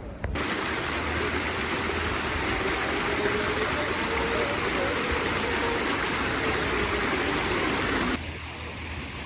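Steady rushing water, cutting in sharply just after the start and cutting off sharply about a second before the end.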